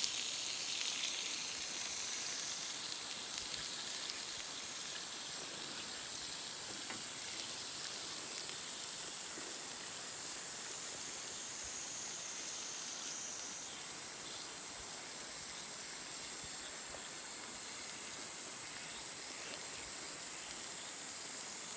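Beef steak sizzling in a pan over a campfire: a steady hiss with a few faint pops.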